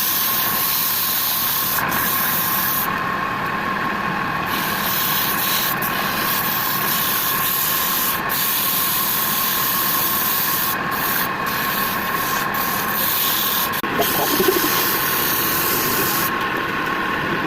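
Wood lathe running with a steady whine while something rubs against the spinning wood, with a constant hiss of abrasion.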